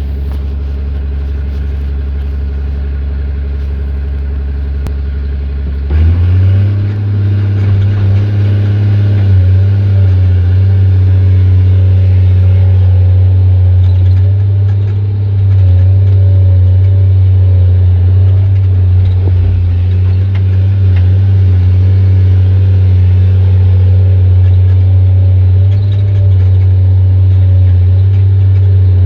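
Excavator's diesel engine with an open, straight-through exhaust running at a low steady idle, then about six seconds in revving up and holding at a higher working speed.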